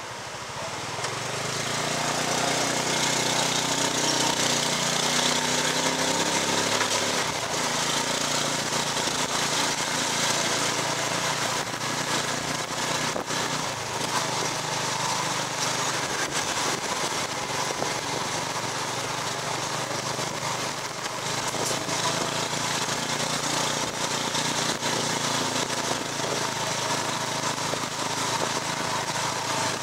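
Small motorcycle engine towing a tuk-tuk carriage, heard from the carriage behind. It picks up over the first couple of seconds, then runs steadily under a haze of road and wind noise.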